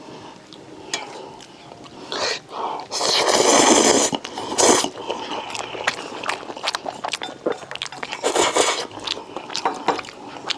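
Close-miked eating: slurping about three seconds in, again near five seconds and near eight and a half seconds, with chewing and small utensil clicks in between.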